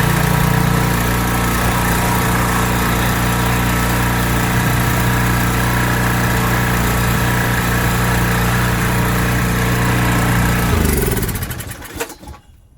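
Pressure washer's small gasoline engine running at a steady speed, then stopping about eleven seconds in, with a few faint clicks after it.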